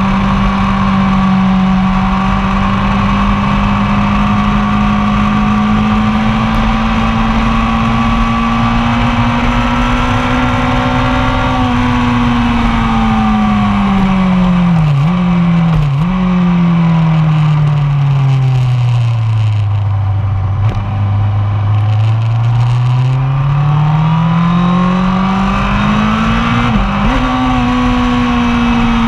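1999 Yamaha R1's 998 cc inline-four engine heard from on the bike, with wind noise. It holds high revs for about twelve seconds, then the revs fall steadily with two quick breaks from downshifts, bottom out about twenty seconds in, and climb again with one gear change near the end.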